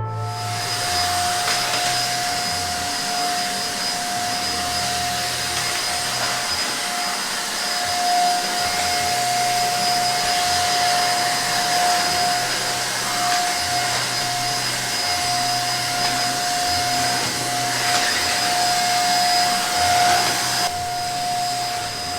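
Vacuum cleaner running steadily: a loud hiss of rushing air with a steady high motor whine over it.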